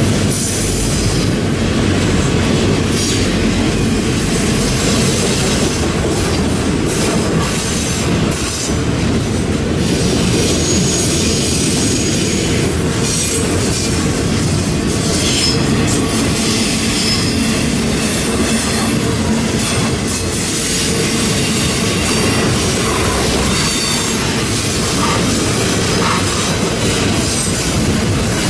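Enclosed auto rack cars of a freight train rolling past: a steady, loud rumble of steel wheels on the rails.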